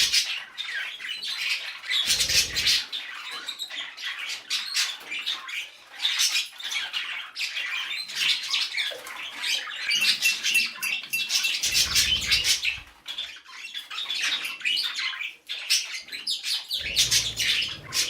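A flock of budgerigars chattering and squawking continuously in a rapid, dense warble, with a few short bursts of wing flapping.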